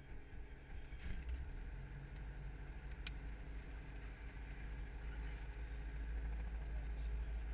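Training helicopter's engine and rotor running: a steady low drone with a set of even steady tones, growing gradually louder. Two short sharp clicks, about a second in and about three seconds in.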